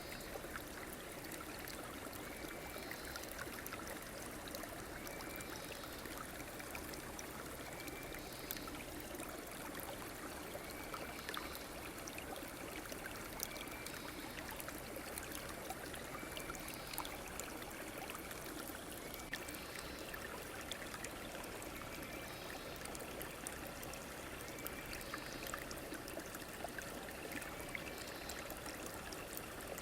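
River water running and trickling steadily, with a faint short chirp repeating every two seconds or so.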